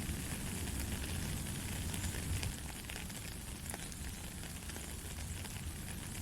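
Steady light rain: an even hiss with scattered faint drop ticks and a low rumble beneath.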